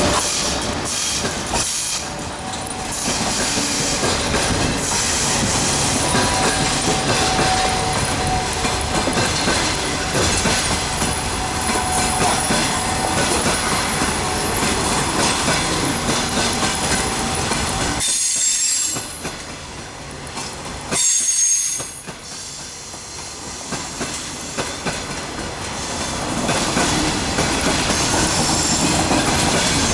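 Passenger train running past at close range: the coaches' wheels clatter over the rail joints, with thin high squealing tones. The noise drops for several seconds past the middle, with one short loud burst in that lull, then builds again.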